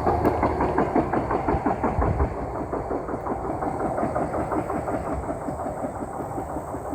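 A hi-rail truck's engine running with a quick, even pulse, slowly getting quieter.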